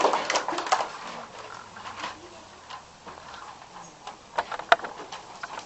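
Audience applause dying away in the first second, then a quiet room with faint murmuring and a few sharp knocks.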